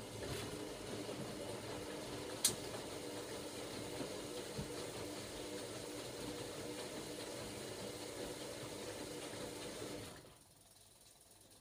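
Hoover Logic washing machine's motor turning the drum, a steady hum that cuts off about ten seconds in, with one sharp click about two and a half seconds in.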